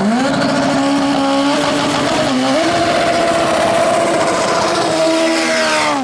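Drag race car engine at full throttle: the revs climb sharply at the start, hold high and steady with a brief step up about two and a half seconds in, then drop away at the end.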